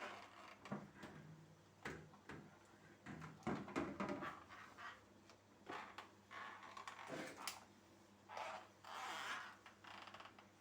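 Irregular household handling noises: short rubs, scrapes and light knocks of things being wiped and moved, with a louder cluster of knocks a few seconds in.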